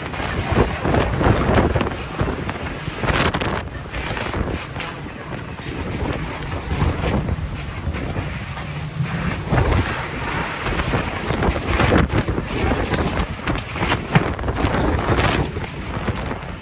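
Strong gusty Santa Ana wind buffeting the microphone, a loud rumbling rush that surges and eases, with a few brief sharp cracks.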